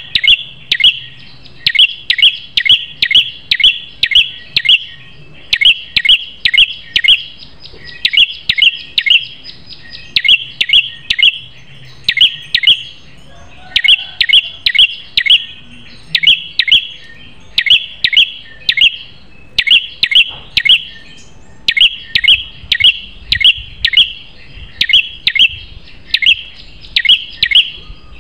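A small songbird known in Indonesia as the prenjak kepala merah singing loud, sharp chirps in quick clusters of three to six notes with short pauses between them, over and over.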